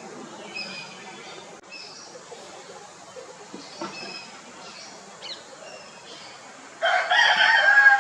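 A rooster crows once near the end: one long, loud call that starts about seven seconds in and is still going at the close. Before it there are only short, high chirps and calls.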